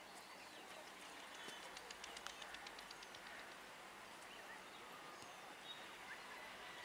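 Faint outdoor background with scattered bird chirps, and a quick run of clicks around two seconds in.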